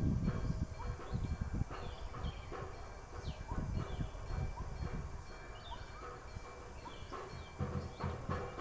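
Birds calling with many short, rising chirps scattered through, over a low rumble.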